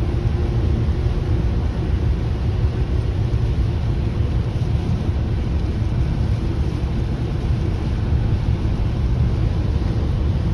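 Steady low rumble of a vehicle on the move, with road and wind noise, on a rainy drive.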